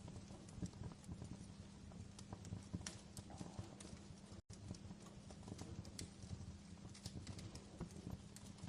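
Fireplace fire crackling: irregular sharp pops and snaps over a low steady rumble, with a momentary dropout about four and a half seconds in.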